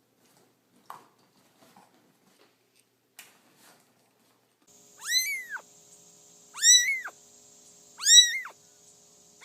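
A cat meowing loudly three times, about a second and a half apart, each meow rising and then falling in pitch. The first few seconds hold only a few faint clicks.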